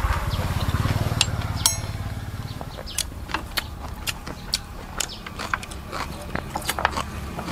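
Eating crunchy raw vegetables and herbs: a low rumble of chewing for about the first two seconds, then many scattered, sharp, crisp clicks as fresh leaves and stems are snapped and chewed.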